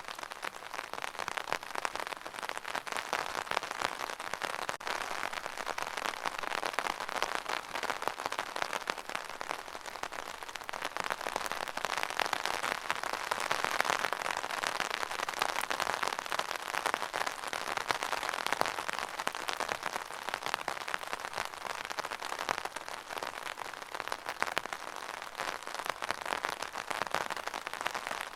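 Steady rain with a dense patter of drops, swelling and easing gently.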